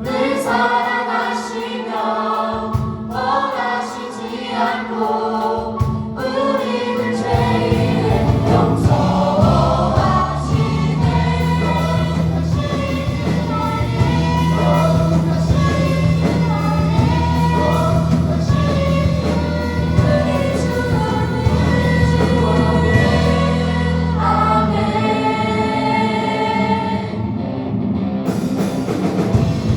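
A choir singing a gospel-style song with instrumental accompaniment; a steady low bass part comes in about seven seconds in.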